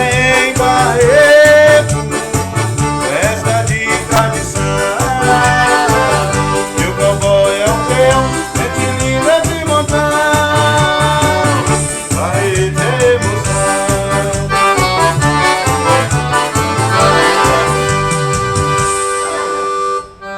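Instrumental forró: an accordion playing the melody over a steady, driving bass-drum beat. The beat stops near the end, leaving a held accordion chord as the tune finishes.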